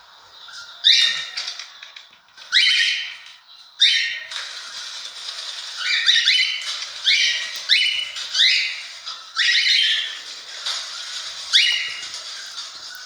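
Cockatiel calling over and over: about ten loud, short calls that rise in pitch, coming roughly once a second.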